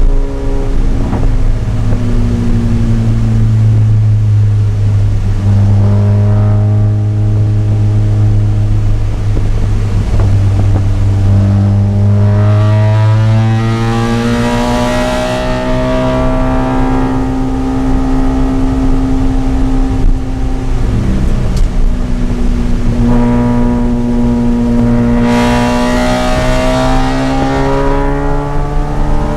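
Mazda RX-8's two-rotor Wankel rotary engine run hard on track. Its pitch climbs and falls with throttle and gear changes: a long climb about halfway through, a drop a few seconds later, then another climb near the end.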